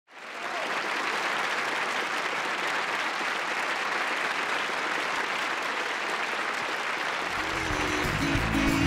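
Audience applauding, the clapping fading in at the start and holding steady. Band music comes in under it near the end.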